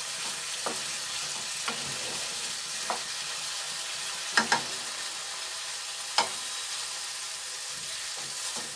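Chicken and potato pieces sizzling in masala in a non-stick kadai, stirred with a spatula that scrapes and knocks against the pan every second or so. The loudest knocks come about four and a half seconds in and again a little after six seconds. This is the chicken being fried down in its spices for kosha.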